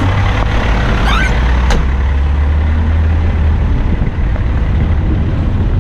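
Eight-wheeler dump truck's diesel engine running steadily with a deep rumble. A short squeak comes about a second in, and a single knock about 1.7 seconds in.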